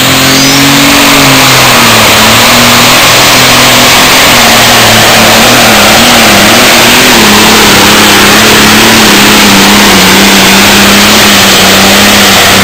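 John Deere 4320 outlaw pulling tractor's diesel engine running flat out under load on a pull, so loud the recording is pinned at its maximum. Its engine tone sags slowly in pitch as the load builds through the run.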